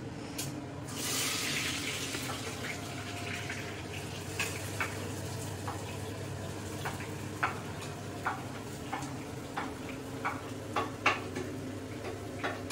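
Chopped onion tipped into hot oil and whole spices in a pressure cooker pot, with a louder sizzle about a second in. The onion then fries steadily while a ladle stirs it, knocking and clinking against the pot now and then, more often near the end.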